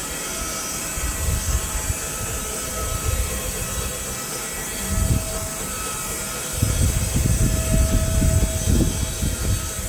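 Woodlands Mills HM126 portable bandsawmill running steadily, its engine and band blade making a continuous mechanical noise with a faint steady whine. An irregular low rumble comes in and grows louder from about six and a half seconds in.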